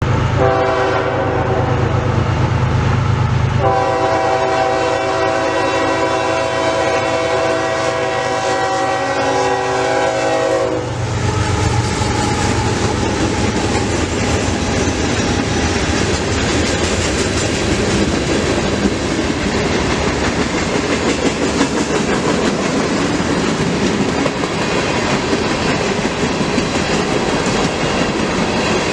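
Diesel freight locomotive passing: low engine rumble, then one long blast of a multi-note air horn lasting about seven seconds, then the engine throb and the steady rumble and clatter of the train's wheels on the rails.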